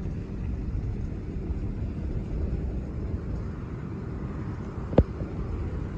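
Steady low rumble of distant aircraft engine noise, with one sharp click about five seconds in.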